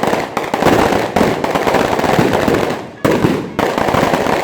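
String of firecrackers going off in a dense, rapid crackle. It falters about three seconds in and then starts up again sharply.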